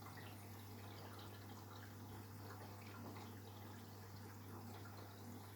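Beko WTK104121W washing machine filling: water trickling faintly into the drum over a steady low hum.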